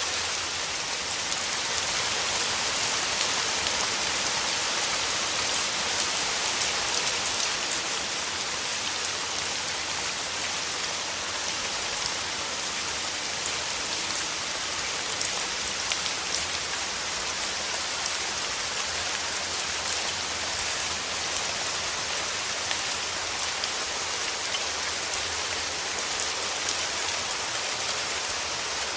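Steady rain falling through forest foliage, an even hiss of many small drops with faint scattered drop ticks, unchanging throughout.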